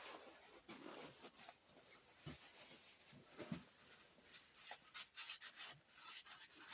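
Faint scraping, rubbing and light ticks of hand work on a metal engine part, with a sharp click at the start.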